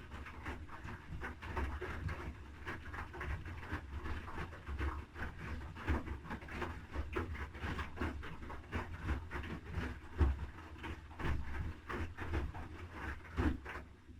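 Haier I-Pro Series 7 (HW80-B14979) front-loading washing machine drum tumbling a wet load, with irregular low thuds and swishing of laundry and water. It stops abruptly at the very end.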